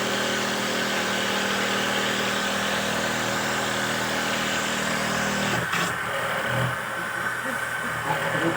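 Motor of a homemade wooden dowel-making machine running with a steady hum, then stopping with a click about five and a half seconds in.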